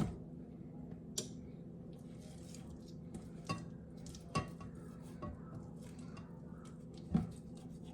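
Kitchen utensils and dishes clinking and knocking: about five short, separate knocks, the loudest near the end, over a low steady hum.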